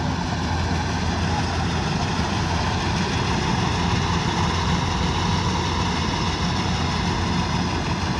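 Kubota DC-105X combine harvester's diesel engine running steadily, with a dense mechanical noise over the engine note.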